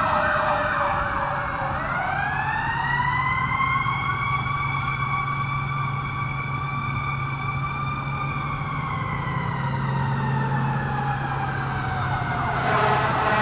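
Federal Q2B mechanical siren on a fire engine winding down, then spun up again about two seconds in to a steady high wail that slowly runs down. A rapidly warbling electronic siren joins near the end, with the truck's engine running steadily underneath.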